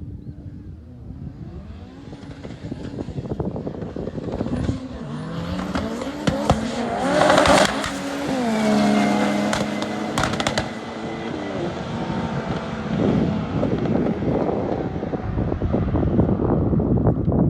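A twin-engine Vauxhall Corsa and a Ferrari 488 Pista drag racing. The engine notes climb in pitch through the gears for several seconds, peak loudly about halfway through, then fall away as the cars back off.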